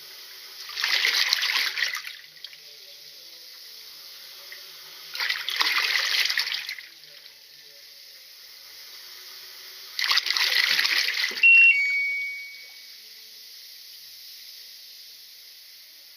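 Water surging and splashing in a washing machine tub during a tub-cleaning run, in three bursts about four and a half seconds apart, each lasting a second or two, over a steady hiss. As the third burst ends, a brief high tone is followed by a longer, lower steady tone.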